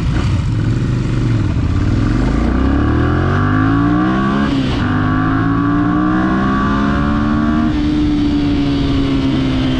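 Motorcycle engine pulling away and accelerating, its pitch rising through the gears, with an upshift about four and a half seconds in and another near eight seconds, after which it runs at a steady speed.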